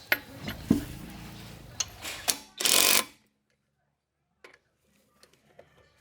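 Workshop work noise: a run of sharp clicks and knocks, then a short loud hiss about two and a half seconds in, followed by near silence with a few faint ticks.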